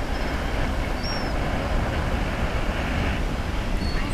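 Steady rumbling wind noise buffeting the microphone on open water, with a couple of faint, short high chirps about a second in.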